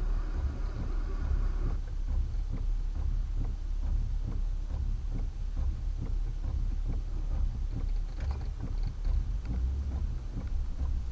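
Car engine idling, heard from inside the cabin as a steady low rumble with many faint, irregular ticks over it. A higher hum stops about two seconds in.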